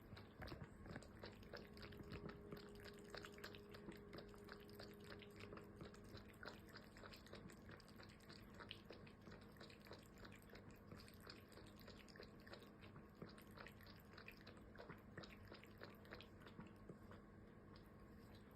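A cat chewing its food: faint, irregular crunching clicks.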